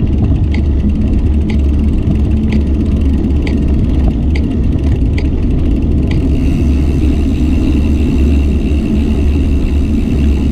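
Steady low rumble of wind and road noise on a camera riding along on a bicycle, with a light click about once a second for the first six seconds, then a faint steady high whine.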